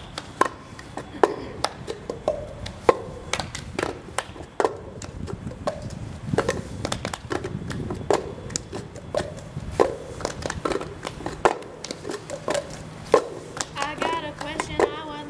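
Sharp percussive hits, such as hand claps and knocks, at an uneven pace of roughly one or two a second. Voices start singing near the end.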